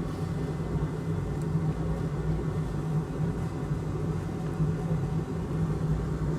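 Steady low hum of a running fan, unchanging throughout; soldering itself makes no distinct sound.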